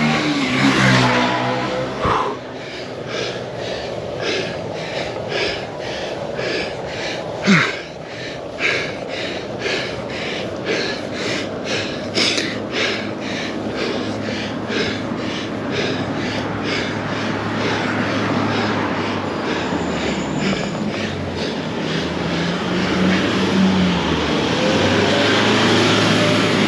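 A cyclist breathing hard and rhythmically, about two breaths a second, while labouring up a hill. A car passes in the first couple of seconds, and another vehicle's engine grows louder near the end.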